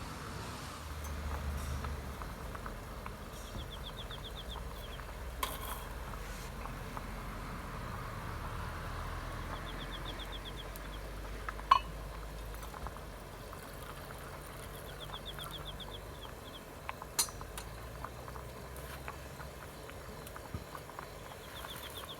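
Outdoor campsite ambience: a steady low rumble, with a short, rapid, high-pitched trill repeating about every five to six seconds. A few sharp clicks stand out, the loudest about halfway through.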